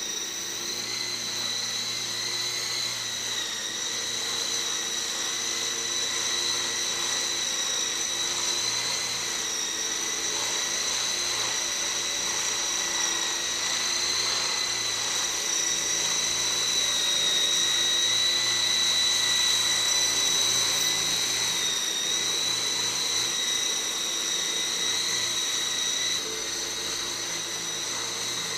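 ESky Dauphin electric RC model helicopter in flight: the motors and rotor blades make a steady high-pitched whine that wavers slightly in pitch throughout. The sound gets a little quieter near the end.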